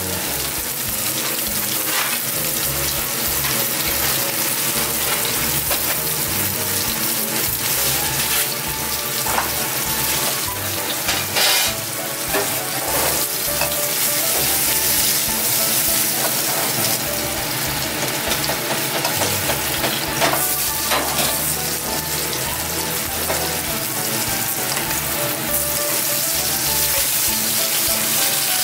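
Pieces of cutlassfish frying in oil in a nonstick frying pan, sizzling steadily.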